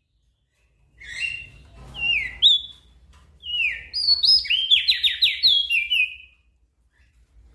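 Crested dark-eye (opior jambul) singing: a run of bright, rapid twittering phrases of quick down-slurred and up-slurred whistled notes, starting about a second in and stopping about a second before the end.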